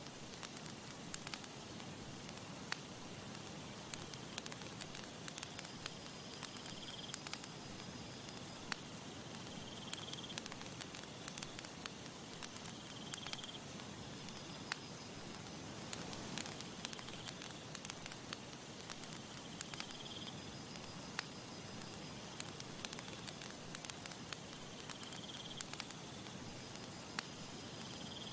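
Campfire crackling, with many sharp pops and snaps of burning wood over a soft steady hiss. Faint short high chirps recur every few seconds.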